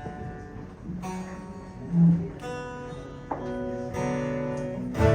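Acoustic guitar picking a few single notes and chords, with a loud low note about two seconds in, then settling into full strumming near the end as a song's intro begins.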